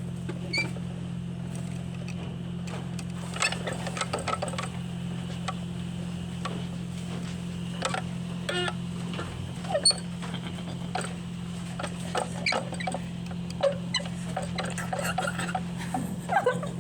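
Automatic car wash machinery humming steadily, with scattered irregular squeaks and clicks over it.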